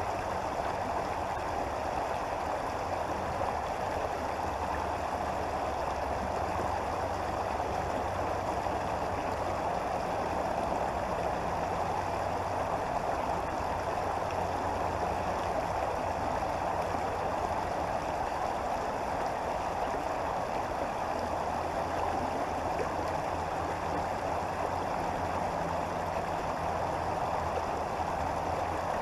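Creek water flowing steadily: a continuous, even rush of moving water.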